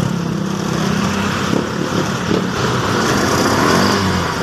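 Kymco Super scooter's small engine running steadily at idle.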